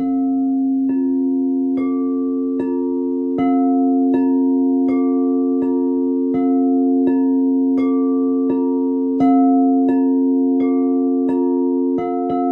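A glucophone (steel tongue drum) played in a slow even run of ringing notes, about one every three-quarters of a second, over the steady low hum of singing bowls.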